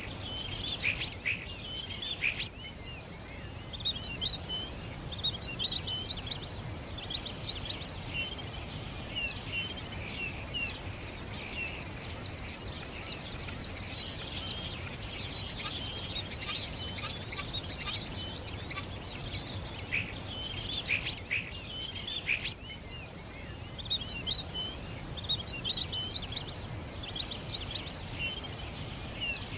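Many small songbirds chirping and twittering at once, quick high chirps overlapping throughout with denser bursts in the middle, over a steady low background noise.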